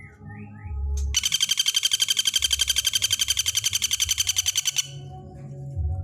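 Songbird calling: a few short chirps, then a fast, even rattling trill of rapidly repeated notes lasting nearly four seconds.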